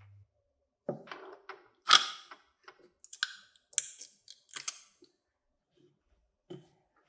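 A quick, irregular series of sharp clicks and light knocks, the loudest about two seconds in and one more near the end: small hard parts being handled and set down.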